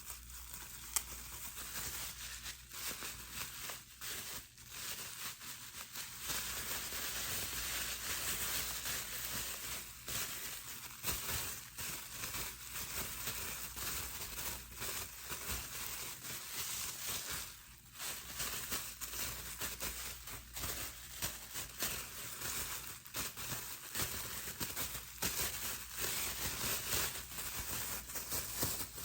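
Plastic bubble wrap handled by hand: steady crinkling with a dense run of small crackles and pops, one sharper pop about a second in.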